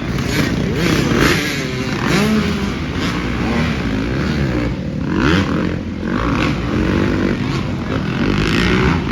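Several motocross dirt bikes running together, their engines revving up and down and overlapping one another as the riders accelerate and back off.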